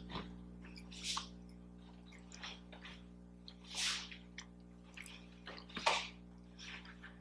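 Close-miked chewing of a soft-baked Pillsbury Cinnamon Toast Crunch cookie: a handful of separate short mouth sounds a second or two apart, the loudest about four seconds in, over a faint steady electrical hum.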